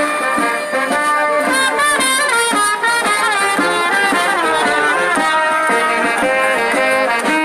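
Brass band playing a lively melody at full volume, the notes changing quickly.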